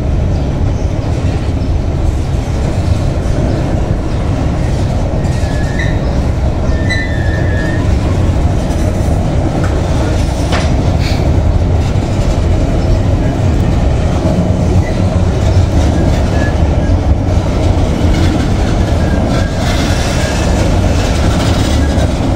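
Freight train of cement tank wagons rolling past close by: a steady, loud rumble of steel wheels on the rails, with a couple of brief faint high squeaks about six and seven seconds in.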